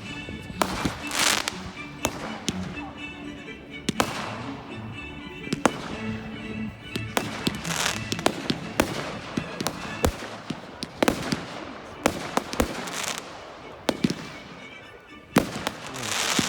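Fireworks going off: a string of sharp bangs at uneven intervals, many of them trailing off into crackling.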